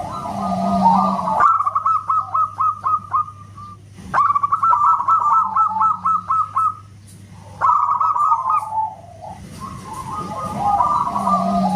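Zebra dove (perkutut) singing: several phrases of rapid stuttering coo notes, each lasting a second or two with short pauses between them. Two birds overlap at the start and again near the end.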